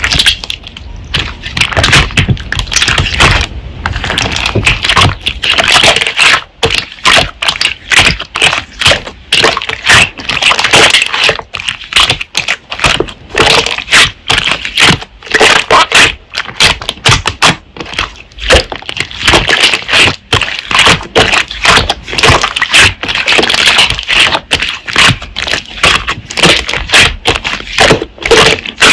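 Slime being pressed and squeezed by hand, making a rapid, continuous run of crackling, popping clicks.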